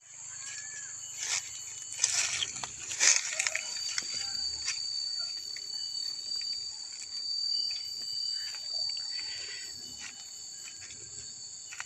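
Insects droning steadily at a high, constant pitch, with a few knocks and rustles in the first few seconds.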